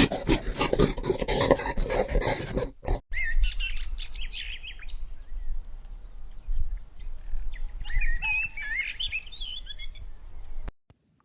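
Recorded animal calls: about three seconds of dense, harsh calls, then after a brief break a run of high, quick, gliding chirps that stops shortly before the end.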